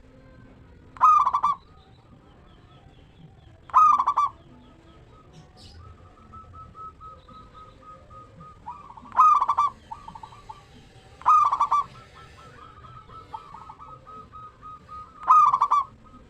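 Zebra dove (perkutut) singing: five loud, short cooing phrases spaced a few seconds apart, with fainter rapid cooing notes running between them.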